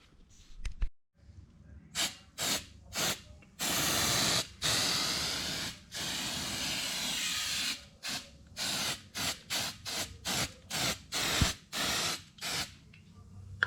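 Aerosol can of gasket stripper spraying in bursts: a few short squirts, then three longer sprays of a second or two each, then about a dozen quick squirts.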